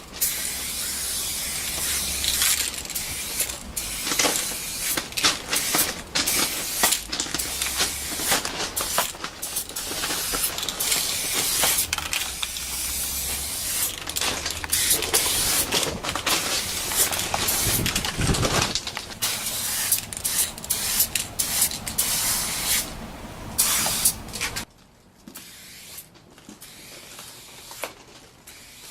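Aerosol spray paint can hissing in repeated bursts, some short and some several seconds long, stopping and starting many times; the spraying stops near the end.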